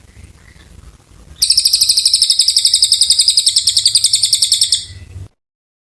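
Cililin bird singing a long, loud, very fast high trill of about a dozen notes a second, starting about a second and a half in and lasting over three seconds before fading and cutting off abruptly. Before it there are a few faint chirps.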